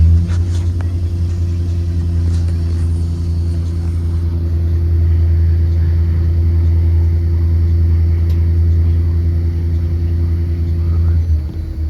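2023 Blue Bird Vision school bus heard from on board while under way: its Ford 7.3-litre V8 and drivetrain run with a steady low drone that holds level, then drops off near the end.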